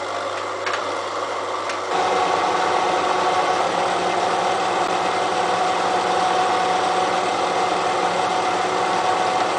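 Elliott Omnimill 00 milling machine running steadily, milling a steel railroad-track anvil. About two seconds in it grows louder with a steady whine.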